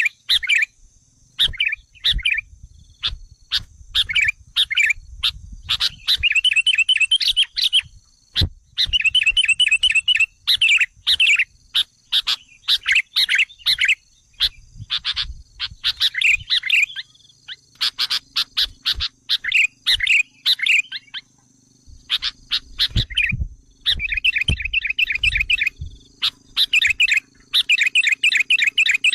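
Sooty-headed bulbuls (kutilang) chattering in repeated bursts of rapid notes with short pauses between them. This is a lure recording meant to agitate wild bulbuls and draw them in.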